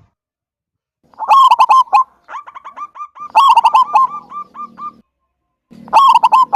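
Zebra dove (perkutut) singing: three loud bursts of rapid cooing notes, with a softer run of evenly repeated short coos between the second and third.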